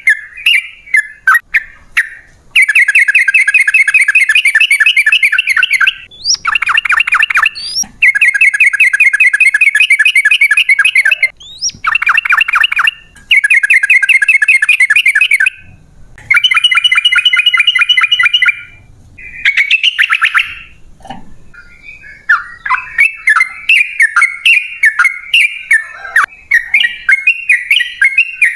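Yellow-vented bulbul (trucukan) singing: quick choppy chirps at first, then a run of long, very fast trills of a few seconds each with short breaks between, and choppy chirping again in the last few seconds. This long rapid trill is the 'ropel panjang' song used to provoke other bulbuls into calling.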